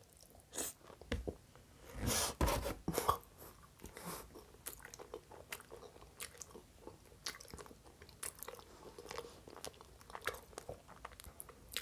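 A person chewing a mouthful of lasagna close to a microphone: a run of short mouth clicks and smacks, loudest about two to three seconds in, then softer, steady chewing.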